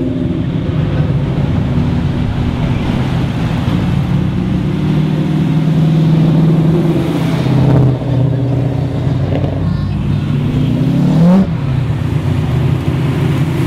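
Engines of a procession of modified and classic cars running as they cruise slowly past at low revs. About eleven seconds in, one engine revs up in a rising note and drops off suddenly, the loudest moment.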